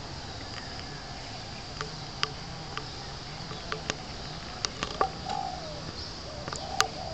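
Soft, low warbling bird calls, a few short ones in the second half, with scattered sharp clicks over a steady background hum.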